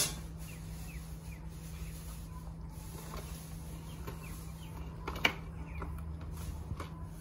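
Faint bird chirps, short falling notes every second or so, over a steady low hum, with one sharp knock about five seconds in.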